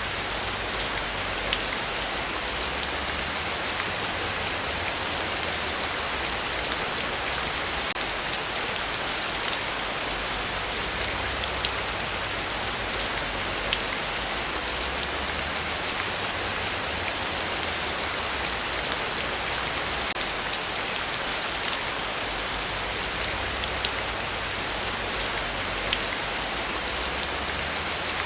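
Heavy rain falling steadily, a dense hiss of drops with many small sharp drop ticks.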